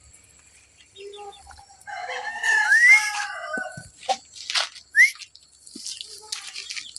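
A chicken giving a loud drawn-out call about two seconds in, followed by a few short, sharp rising chirps.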